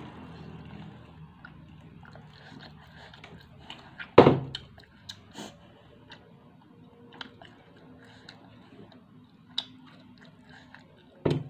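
Close-up chewing of a fried snack, with small crunches and wet mouth clicks scattered throughout. There are two loud sharp thumps, one about four seconds in and one near the end.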